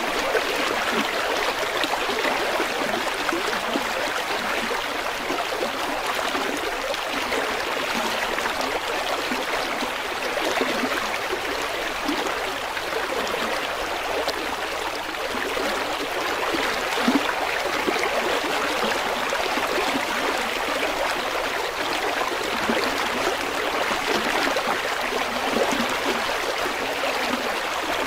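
River water flowing and babbling over stones, a steady rushing with small splashes and trickles.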